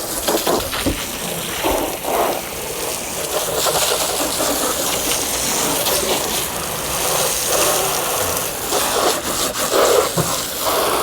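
Water from a hose spraying and splashing steadily onto a boat, with an uneven, surging rush.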